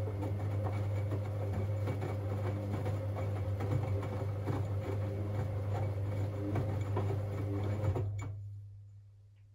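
Siemens Siwamat 6143 washing machine turning its drum in a boil-wash cycle: a steady motor hum with many small knocks and rattles from the load. It stops about eight seconds in, and the hum dies away over the following second or two.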